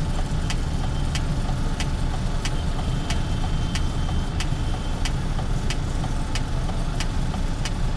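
Mercedes truck diesel engine idling steadily, with a sharp regular tick about twice a second. The engine is being checked for a faulty injector.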